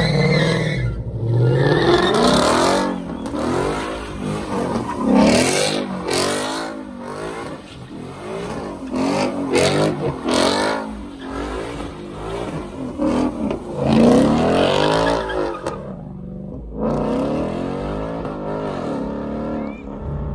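Ford Mustang's engine revved hard up and down over and over in a burnout, with the rear tyres spinning on the pavement.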